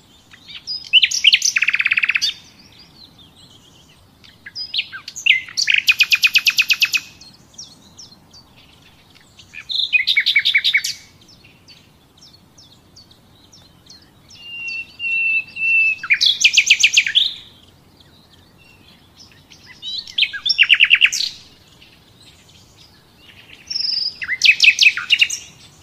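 A songbird singing: six phrases of rapid trills, each one to two seconds long, about every four seconds. One phrase opens with a short steady whistle.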